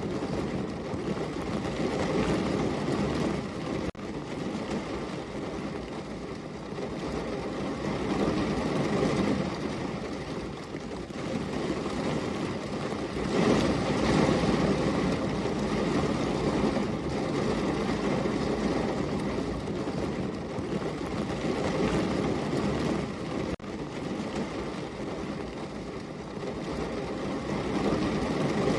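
Rain falling steadily, swelling and easing in strength every few seconds.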